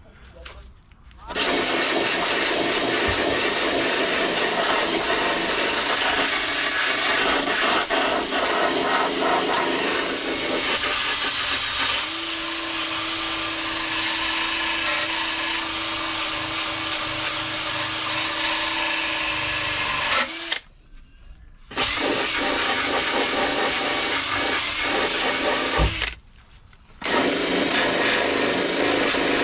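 Electric drill running under load, cleaning rust and paint off the car's sheet-metal panel, stopping for a second twice near the end.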